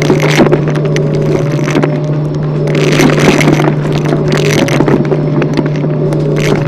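Vacuum cleaner running with a steady motor hum while being pushed quickly back and forth across the floor, with repeated surges of scraping and sharp clicks.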